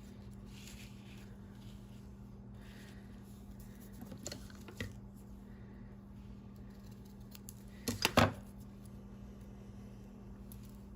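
Small handling sounds of paper crafting on a desk: a few soft clicks about four seconds in and a louder brief double clatter about eight seconds in, over a steady low hum.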